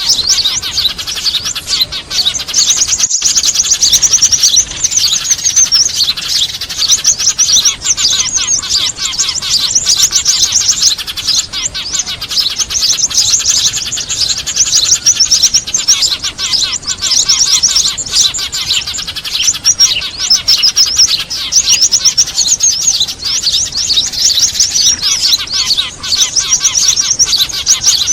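A dense, continuous chatter of many small birds chirping rapidly, with noisy Eurasian tree sparrows among them. It is a lure recording used to call small birds in for trapping.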